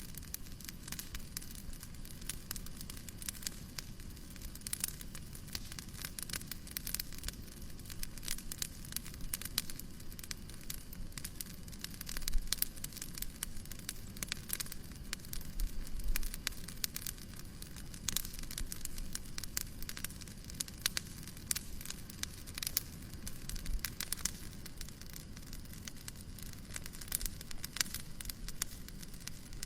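Wood fire crackling in a fireplace: dense, irregular small pops and snaps over a steady low rumble, with a louder pop about twelve seconds in.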